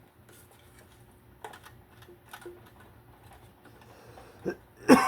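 Faint, irregular clicks and taps of hand tools working on a portable generator's gas tank fittings, with a man's voice near the end.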